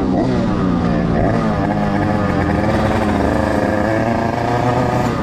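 Small 80cc Derbi two-stroke motorcycle engine riding under throttle, its pitch climbing and dropping again and again with the gear changes.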